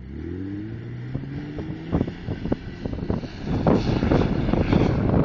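Jeep's engine revving up under hard throttle, its pitch rising over the first two seconds as it pulls away on sand. From about two seconds in, wind buffeting the microphone grows louder and covers it.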